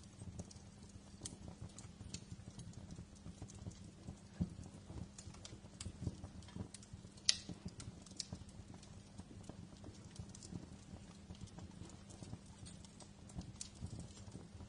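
Wood fire crackling in a fireplace: frequent small snaps and pops over a low rumble, with one louder pop about seven seconds in.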